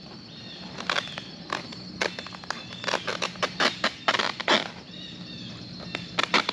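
Landscape fabric being cut, a series of crisp snips or crunches roughly twice a second.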